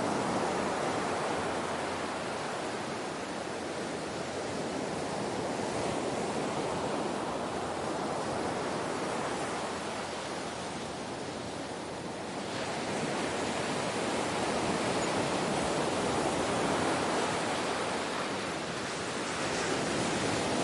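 Ocean surf: waves washing in and drawing back as a continuous rush that swells and eases, with a fresh surge about twelve seconds in.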